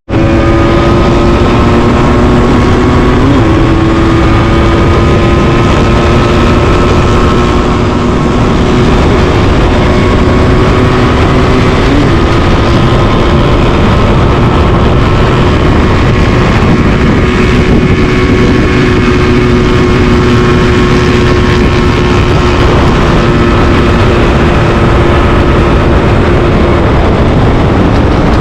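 Motorcycle engine running at a steady, nearly constant speed, its pitch drifting slightly and stepping up a little a few times, over a steady rush of noise.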